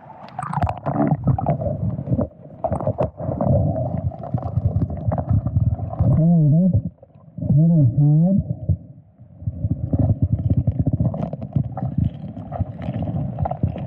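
Muffled underwater rumbling and gurgling as hands sweep and fan sediment on a creek bed, with many short scraping knocks. Two wavering pitched tones come about halfway through.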